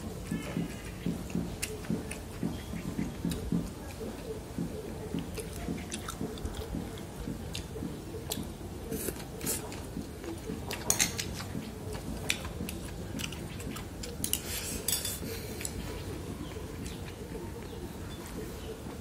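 A man chewing a mouthful of rice and stir-fried water spinach. Chopsticks and a spoon click sharply against a ceramic bowl now and then.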